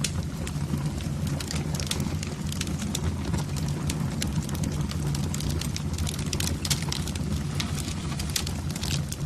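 Fire burning in a fireplace: frequent, irregular sharp crackles and pops over a steady low rumble.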